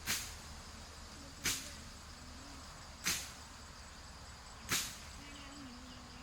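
A sharp swishing stroke about every second and a half, five in all, over the steady chirring of insects.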